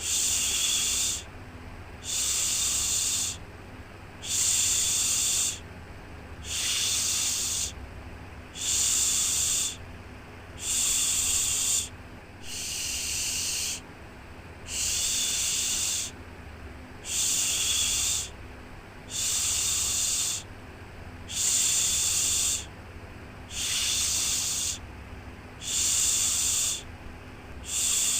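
Repeated 'shhh' shushing for a baby's sleep: about a second of hiss, then a short pause, one shush every two seconds or so, over a faint steady low hum.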